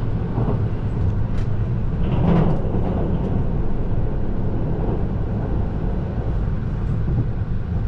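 Passenger train running at speed, heard from inside the car: a steady rumble of wheels and running gear on the rails, swelling briefly about two seconds in.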